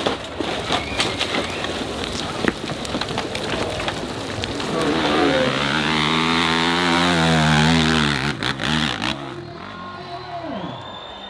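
Dirt bike engine revving hard, loudest between about five and eight seconds in, then dropping in pitch and fading.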